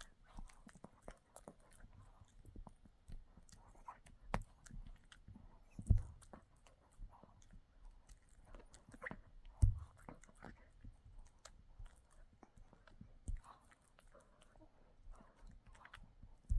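A dog chewing and gnawing on a hard chew treat, with irregular crunches and clicks of teeth. A few louder knocks come about 6 and 10 seconds in.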